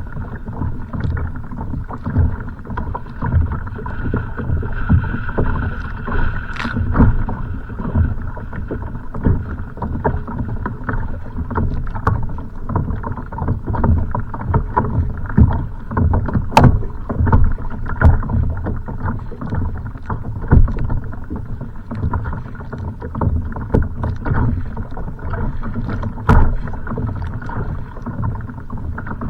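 Choppy waves slapping irregularly against a kayak's hull, with wind rumbling on the microphone.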